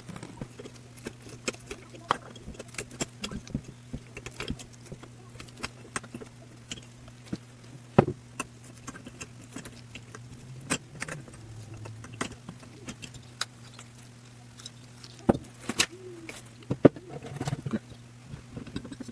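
Scattered small metallic clicks and taps of engine parts being handled, as gaskets and the cylinder are fitted over the piston of a 2-stroke motorized-bike engine. A steady low hum runs underneath.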